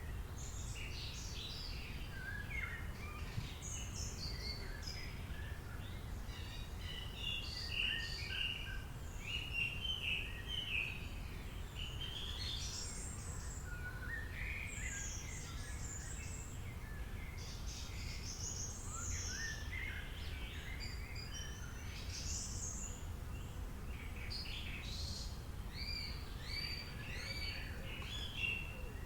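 Many birds chirping and calling over a steady low rumble of background noise.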